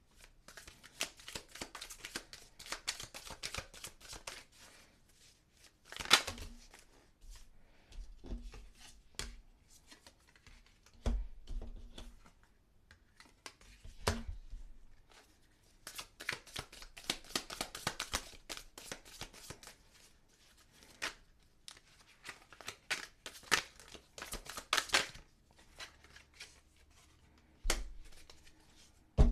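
Tarot cards being shuffled by hand in repeated bursts of quick riffling, with an occasional soft knock as the deck is tapped or set down.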